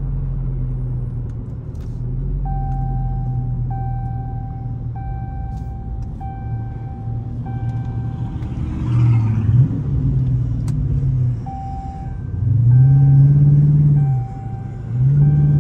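Dodge Charger R/T's 5.7-litre HEMI V8 heard from inside the cabin, running steadily and then pulling in loud surges from about halfway through, its note rising and falling with each push of the throttle. A short electronic tone repeats about once a second through much of it.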